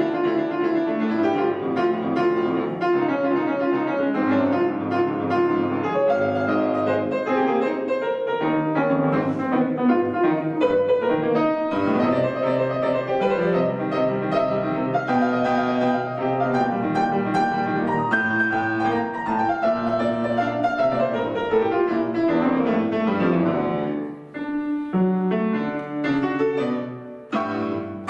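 Piano playing a classical-style piece with dense, quick passages. About three-quarters of the way through a run of notes falls in pitch, then the playing breaks into slower, separate chords near the end.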